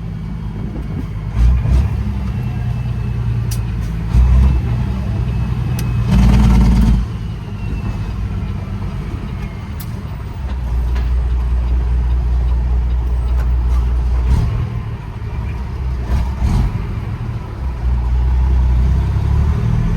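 Straight-piped Detroit Series 60 inline-six diesel of a Peterbilt 389 glider running at low speed, its level surging up and down. There is one loud burst lasting about a second, around six seconds in.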